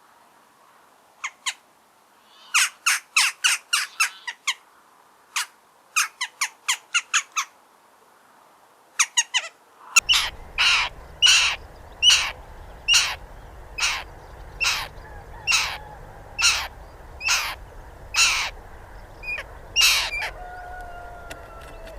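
Western jackdaw giving short, sharp 'chak' calls in irregular bursts over the first half. After an abrupt cut to a noisier recording, a black-winged kite gives a steady series of harsh calls, about two a second, for some ten seconds.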